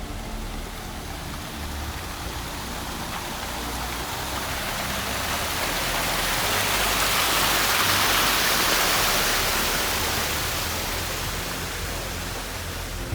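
Rushing water, a steady hiss that swells to its loudest in the middle and then eases off again.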